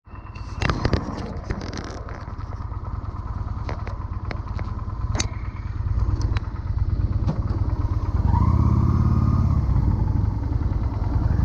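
Motorcycle engine running with a steady low rumble, growing louder with a rising pitch about eight seconds in as it is revved or pulls away. Sharp clicks and knocks come in the first two seconds, with a few more scattered after.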